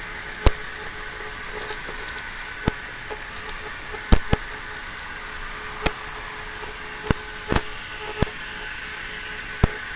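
Model train running on its layout: a steady motor hum and hiss, with sharp clicks at irregular intervals, about nine of them.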